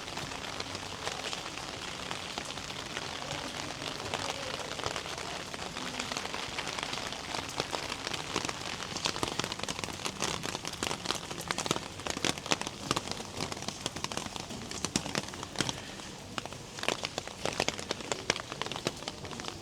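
Rain falling, an even patter with many sharp, close drop hits that grow denser from about a third of the way in.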